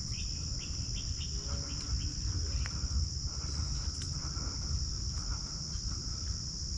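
Insects chirring in a steady, continuous high-pitched chorus, with a low rumble underneath.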